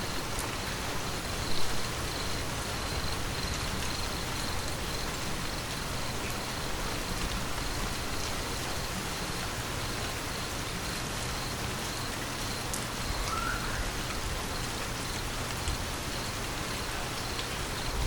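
Steady rain falling: an even, continuous hiss with scattered drops ticking on surfaces.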